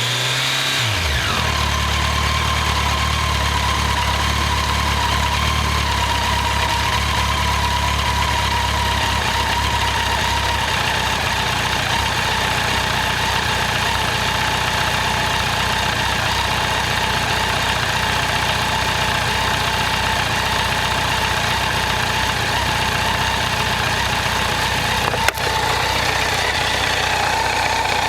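Honda CBR1100XX Blackbird's inline-four engine, its revs falling away in the first second and then idling steadily, with its new cam chain tensioner fitted. A single sharp click about 25 seconds in.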